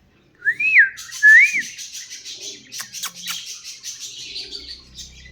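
Pet parrot whistling two short notes that each rise and fall, then a fast run of soft chirps and clicks.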